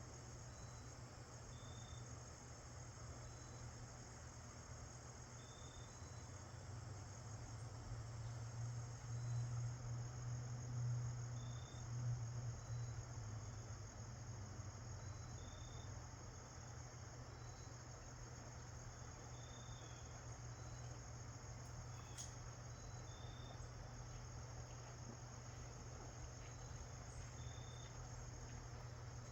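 Crickets chirping steadily, with short high notes repeating every couple of seconds. Underneath is a low hum that swells for a few seconds in the middle.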